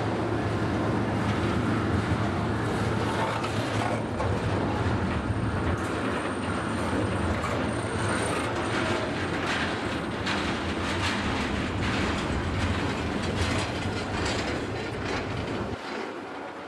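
Iowa Interstate freight train rolling past: a steady low diesel hum from the GE ES44AC locomotives that fades over the first half, then the freight cars' wheels clicking over the rail joints, with a faint high squeal a few seconds in.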